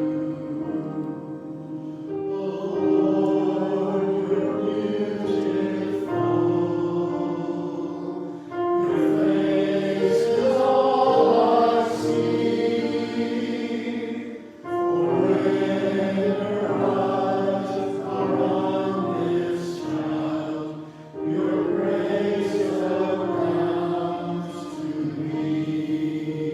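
A choir singing a slow sacred piece in held notes, in phrases broken by short breaths about every six seconds.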